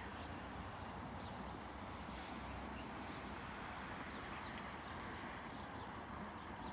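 Outdoor morning ambience: a steady low rumble and hiss, with faint short bird chirps scattered throughout and the soft footsteps of someone walking.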